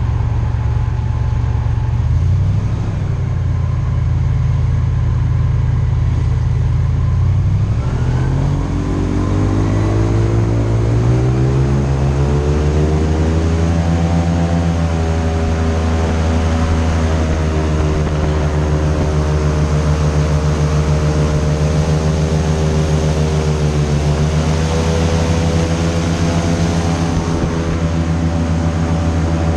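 Airboat engine and propeller running loud, revving up from about eight seconds in to a steady high speed, easing briefly about two-thirds of the way through before picking back up.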